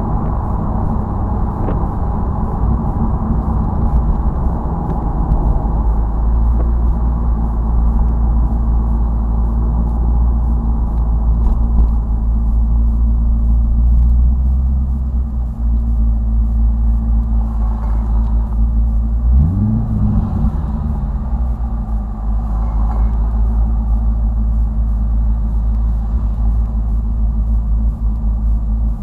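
Car engine drone and road rumble heard from inside a moving car, with a steady low hum. About twenty seconds in, the engine pitch briefly rises and falls again.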